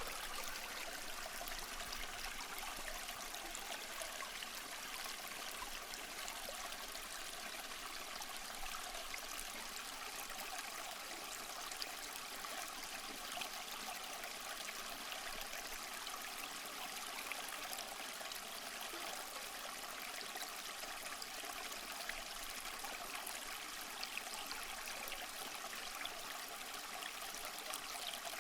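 Small stream flowing: a steady, even trickle and babble of water.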